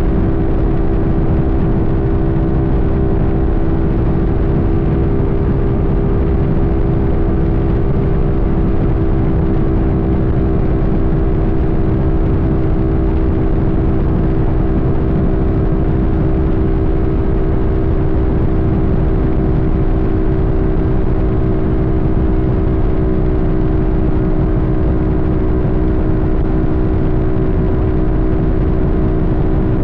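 Sportbike engine running at a steady cruising speed, its pitch holding level, over a low rush of wind and road noise.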